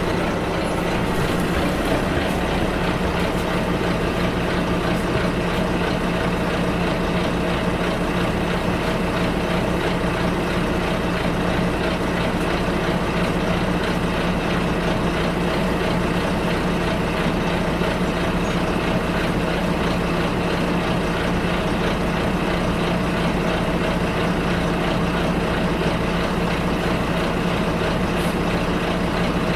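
Bus engine running steadily, heard from inside the bus as an even, low drone with a constant hum.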